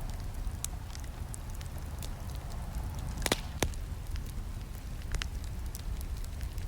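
Wood campfire crackling: scattered sharp pops and snaps, with two louder snaps about halfway through, over a low steady rumble.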